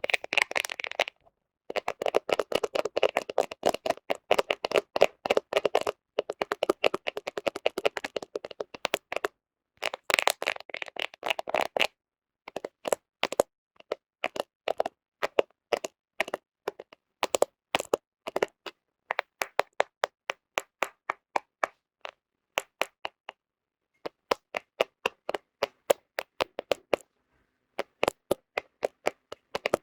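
Fingernails tapping and scratching on a smartphone's camera, right at its microphone: rapid, densely packed clicking for the first dozen seconds or so, then short runs of crisp taps separated by brief pauses.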